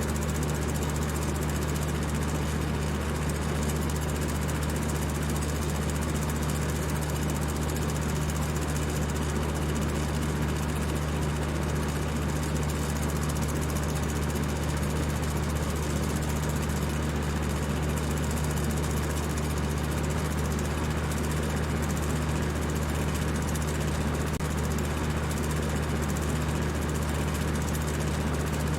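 Electric fan running at high speed: a steady whir of rushing air over a low, constant hum.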